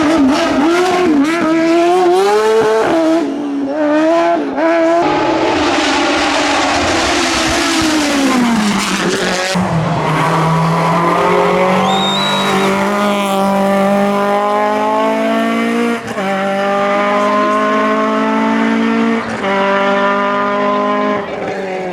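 Hillclimb race car engine revving hard up and down with tyre squeal, then pulling away flat out through several gears, the pitch climbing and dropping back at each upshift.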